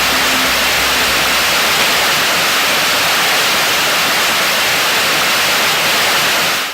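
An O-4600 solid-propellant rocket motor, 152 mm across and burning NASSA Yellow propellant, firing on a test stand: a loud, steady roar of hiss-like noise that cuts off suddenly near the end.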